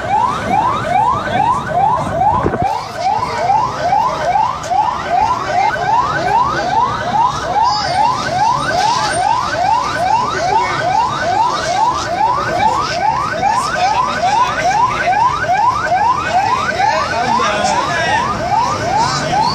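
Emergency vehicle siren sounding in quick repeated rising sweeps, about two or three a second, each climbing then snapping back to start again.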